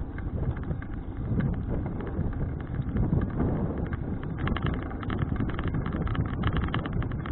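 Wind buffeting an action camera's microphone over the low rumble of a folding bicycle riding along a road. From about four and a half seconds in, a rapid run of clicks and rattles comes in on top.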